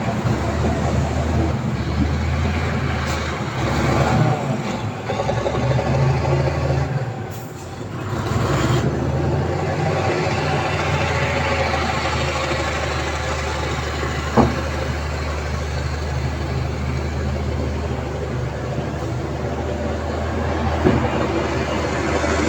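Heavy diesel construction machinery running steadily, with a brief dip in level about seven seconds in and one sharp click about halfway through.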